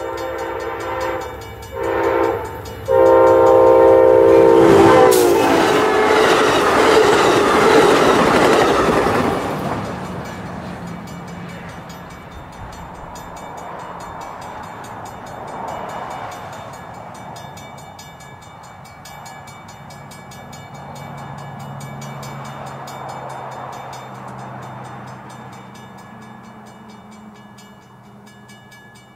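Diesel locomotive air horn sounding as a train approaches and passes at speed. One blast ends about a second in, then comes a short one, then a long one whose pitch drops as the locomotive goes by. A loud rush of wheels and rail noise follows and fades over several seconds to a distant rumble.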